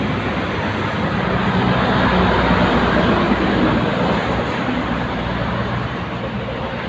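A heavy truck passing on a highway: engine hum and tyre noise that swell to a peak about two to three seconds in, then fade.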